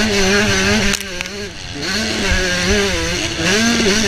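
Motocross bike engine under race throttle, heard from the rider's helmet with rushing wind noise. It eases off about a second in, then picks up again and rises and falls over the bumps.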